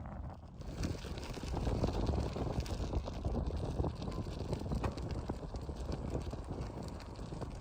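Wind rushing and buffeting over the microphone while riding a bicycle along a road, with scattered small clicks and rattles running through it.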